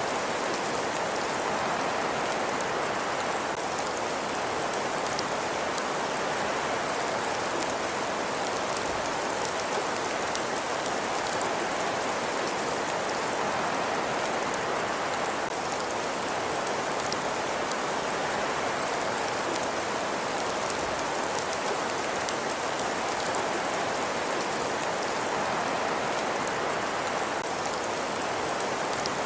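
Fireplace ambience: a steady, even hiss with faint scattered crackles and no change throughout.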